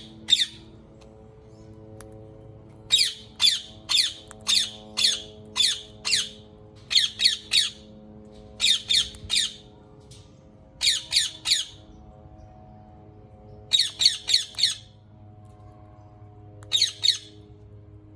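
Rose-ringed (Indian ringneck) parakeet giving loud, sharp squawks in quick runs of two to seven calls, with pauses of a second or two between runs. Faint steady background music plays underneath.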